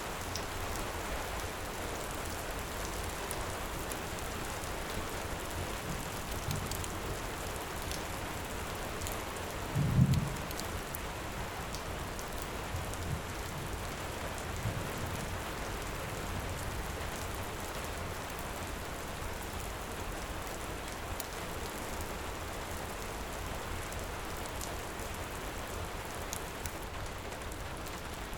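Steady heavy rain, with faint sharp pops of a crackling wood fire scattered through it. A single low thump stands out about ten seconds in, with a few softer low bumps around it.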